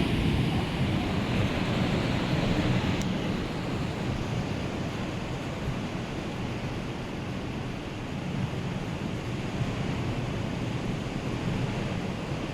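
Rough sea surf, a steady wash of breaking waves, with wind on the microphone.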